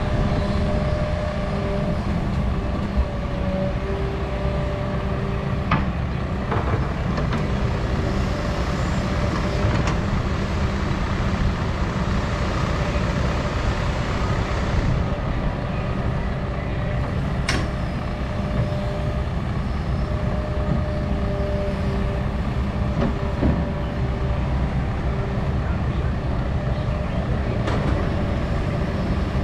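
Doosan 350 excavator's diesel engine running steadily under working load, with a whine that comes and goes and a few sharp knocks, the loudest about two-thirds of the way through.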